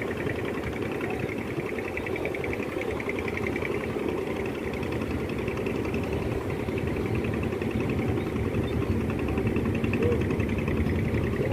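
Large passenger ship's engines running steadily: a continuous low rumble with a fast buzzing rattle higher up.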